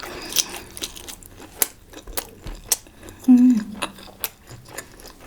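Close-up eating sounds: chewing with frequent small sharp clicks and smacks, and a brief hummed "mm" about three seconds in.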